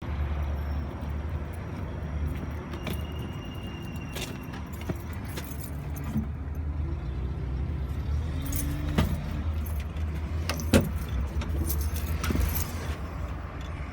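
Kubota M7500 tractor's four-cylinder diesel engine idling steadily, with several sharp clicks and knocks over it, the loudest about eleven seconds in.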